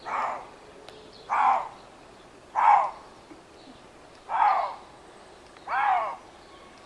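Lynx calling: five short, evenly spaced calls, about one every second and a half.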